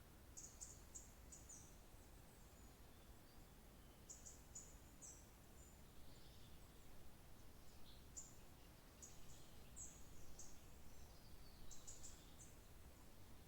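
Faint songbird chirps: short, high notes in quick clusters of three or four, repeating every second or two, over a soft steady background hiss.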